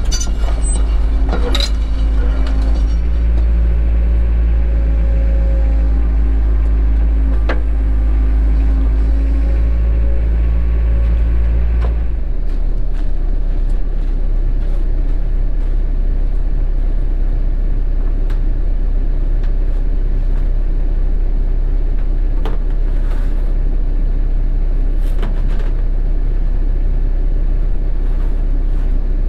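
Cat 307 excavator's diesel engine running, with a steady hydraulic whine under load for the first ten seconds or so. About twelve seconds in, the engine note drops and settles into a steady rumble, with occasional knocks.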